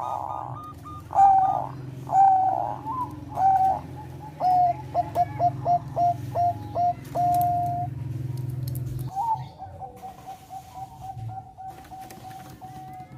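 Zebra dove (Thai perkutut bangkok) cooing: a few separate coos, then a quick run of about a dozen short clipped notes, then a long even note in the last few seconds. A low hum lies under it and stops about two-thirds of the way through.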